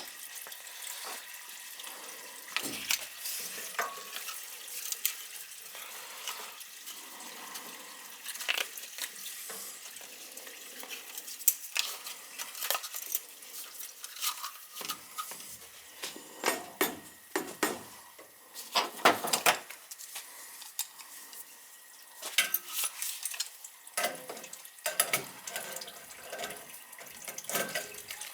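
Water running steadily from opened boiler piping, with repeated sharp metallic clinks and clanks of tools and fittings being handled.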